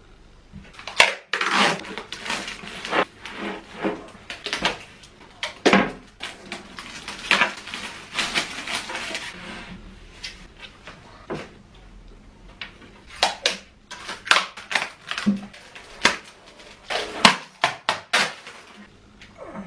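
Metal parts of a chrome flat-pack dresser clattering and knocking as they are handled during assembly, with stretches of rustling in between.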